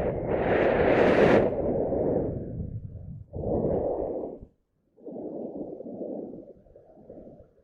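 Wind buffeting the microphone in gusts, a rushing, rumbling noise that swells and fades and cuts out briefly about halfway through.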